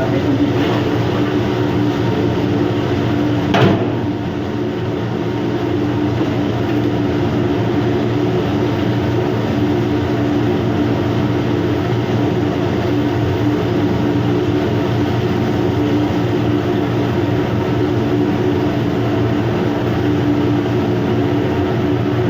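Steady drone of a ship's machinery with a constant low hum, with one sharp knock about three and a half seconds in.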